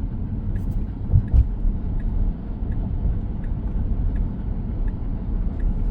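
Low, steady road and tyre rumble inside the cabin of a moving 2023 Tesla Model X, with no engine note, and two short low thumps a little over a second in.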